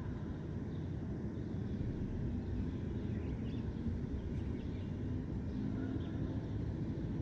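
Steady low rumble of distant city traffic, with a few faint bird chirps scattered over it.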